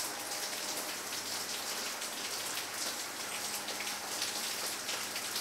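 Steady rain falling: an even patter and hiss of rainfall that holds level throughout.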